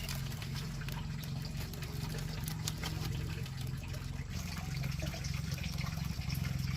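Water running steadily and filling a container, over a steady low hum.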